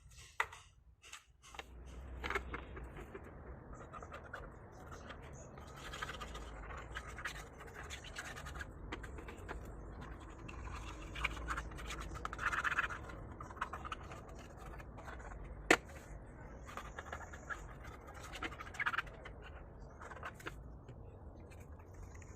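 Scratching and scraping with scattered clicks over a faint low rumble, and one sharp click about sixteen seconds in.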